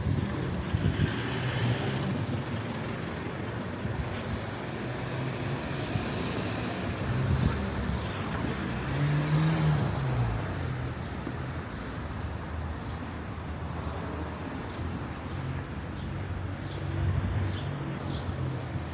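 Street traffic: motor vehicles running and passing, with one vehicle passing close about halfway through, its engine rising then falling in pitch.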